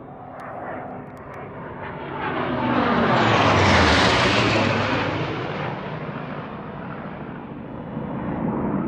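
An airplane flying past: its engine noise swells to a peak about four seconds in and then fades, the pitch dropping as it goes by.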